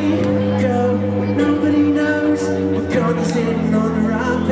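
Live band music, held chords that change about a second and a half in and again about three seconds in, with some singing over them.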